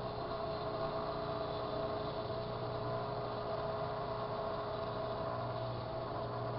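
Sharp Carousel microwave oven running with a steady, even hum while heating a bell pepper.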